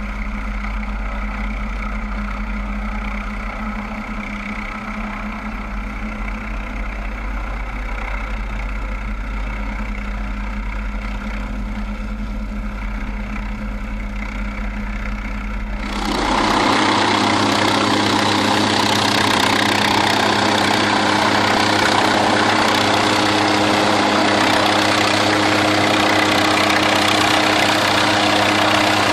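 A steady engine drone with a low hum, changing abruptly about sixteen seconds in to a louder, fuller running noise.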